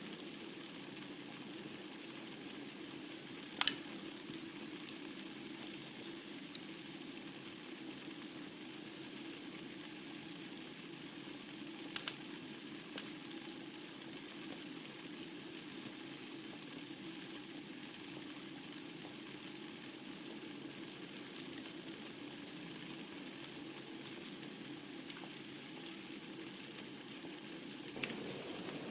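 Wood fire burning in a fireplace: a steady soft hiss with a few sharp crackles and pops, the loudest about three and a half seconds in, others around twelve seconds in and near the end.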